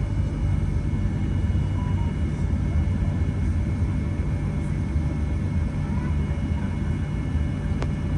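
Cabin noise inside a Boeing 737-800 taxiing after landing: a steady low rumble from its CFM56 jet engines at taxi power and the airflow around the cabin, with a single short click near the end.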